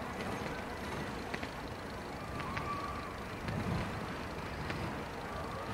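Fireworks display: a steady low rumble with several sharp cracks, a short whistle about two and a half seconds in, and a dull boom a little before four seconds.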